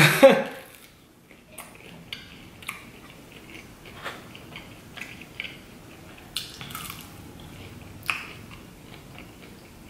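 Biting into and chewing a McDonald's Chicken McNugget: a short bite right at the start, then chewing with scattered soft clicks and crackles.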